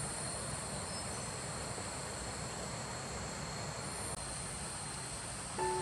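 Insects chirring in a steady, high, continuous drone, with a low rumbling background. Soft music notes come in near the end.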